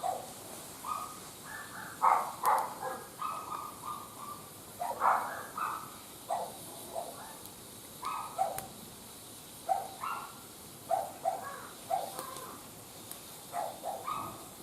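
Short animal calls, repeated irregularly many times, with a few faint sharp clicks between them.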